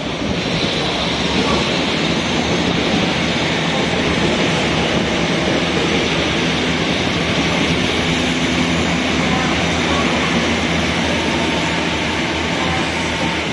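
Taiwan Railways train at a station platform, steady, loud rail and running noise with a low electric hum.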